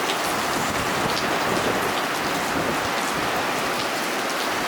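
Steady hiss of rain falling in typhoon weather.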